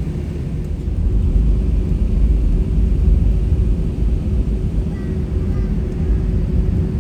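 Airbus A320-200 cabin noise heard from inside: a steady low rumble of the engines at low power with a faint constant hum, growing louder about a second in.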